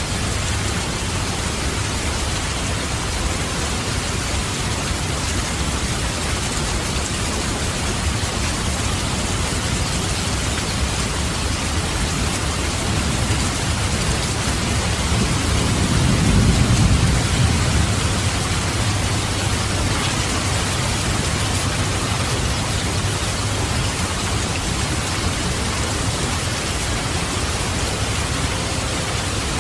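Steady heavy rain, with a low roll of thunder that swells about halfway through and then fades.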